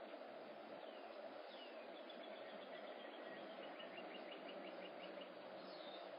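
Faint songbird calls over a steady background hiss: a couple of short downward-sliding whistles, then quick trills of repeated high notes lasting about three seconds.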